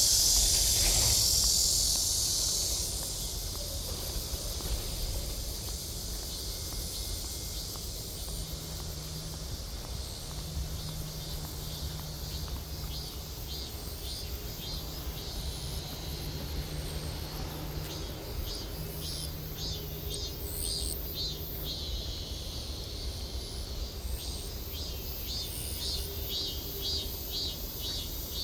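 Insects chirping outdoors in repeated rapid high trills, after a loud steady high hiss that fades away two to three seconds in.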